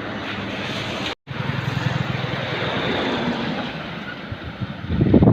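Heavy truck engine running steadily under road and wind noise, with a brief cut to silence about a second in and louder, uneven noise near the end.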